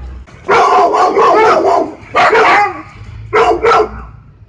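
A dog barking loudly in bursts: a long run of barks starting about half a second in, then two shorter barks.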